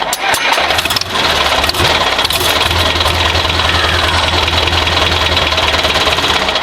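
Tractor engine starting abruptly, then running steadily with a fast, even chug.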